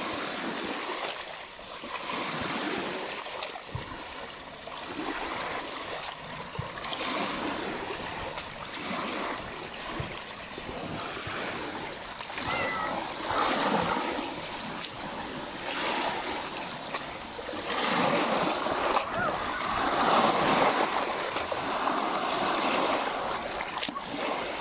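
Small lake waves lapping and splashing at the shore, swelling and ebbing every couple of seconds.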